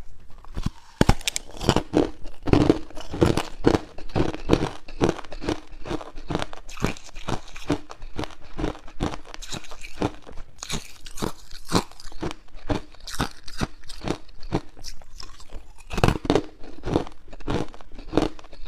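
Hard clear ice cubes being crunched between the teeth: a steady run of sharp crunches, about two or three a second, with heavier bites near the start and about sixteen seconds in.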